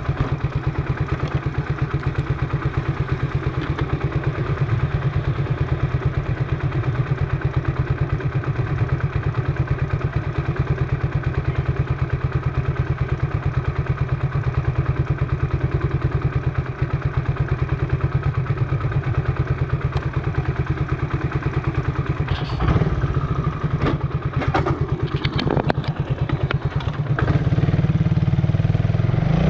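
Motorcycle engine running steadily while the bike is ridden, heard from on board. A few sharp knocks come near the end, and then the engine grows louder for the last couple of seconds.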